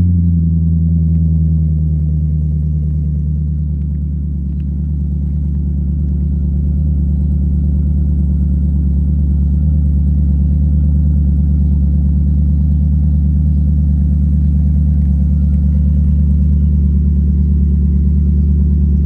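BMW E60 550i's 4.8-litre V8 idling steadily through a muffler-deleted exhaust, a deep, even drone.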